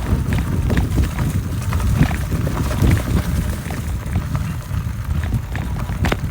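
E-bike rolling along a sandy, bumpy woodland trail: a steady low rumble of tyres and wind on the microphone, with frequent small clicks and rattles from the bike going over the ground.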